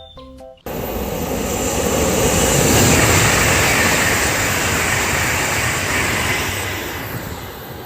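A high-speed train passing by: a rushing noise that starts abruptly, swells over about two seconds and slowly fades away.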